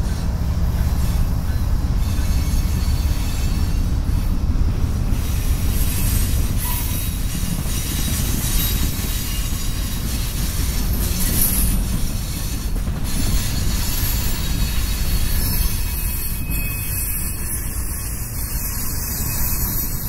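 Freight cars of a long CSX train rolling past close by: a steady rumble and rattle of steel wheels on the rails, with high-pitched wheel squeal at times. The heavy low rumble of the GE diesel locomotive fades over the first few seconds as it moves off.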